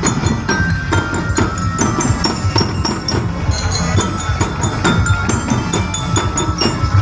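Many wooden teklek clogs clacking together in a fast, dense rhythm, with short ringing bell-like tones sounding over them.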